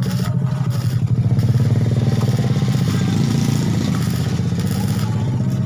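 A motor running steadily with a low, even hum, swelling slightly about a second in.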